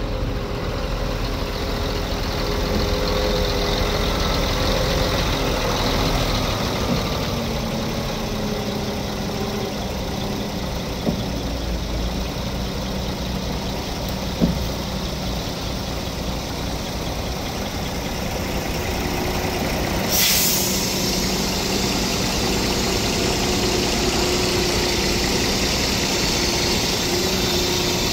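A vehicle engine running steadily, likely a heavy vehicle such as a truck idling, with a short loud hiss of air about twenty seconds in and two brief knocks before it.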